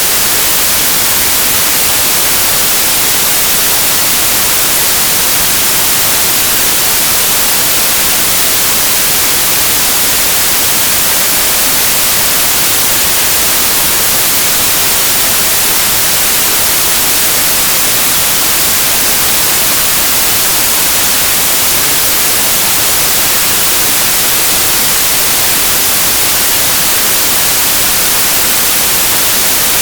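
Steady white noise: an even, unbroken hiss, brightest in the high frequencies, with no changes.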